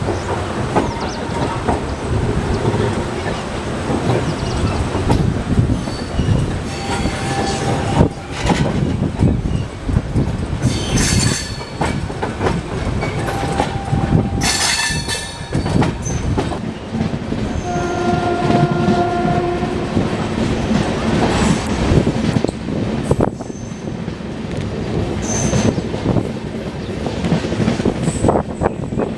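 Hemkunt Express passenger train pulling out and gathering speed, heard from aboard one of its coaches: steady wheel rumble and clatter on the rails, with high wheel squeals about 11 and 15 seconds in. A train horn sounds about 18 seconds in for about a second and a half.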